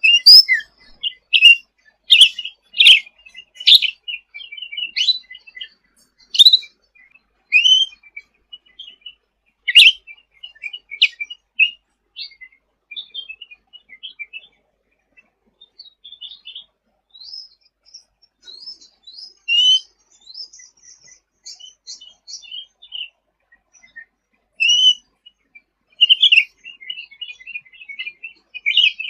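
A cucak ranting singing in quick bursts of sharp, high chirps and short rattling trills, with a short lull in the middle.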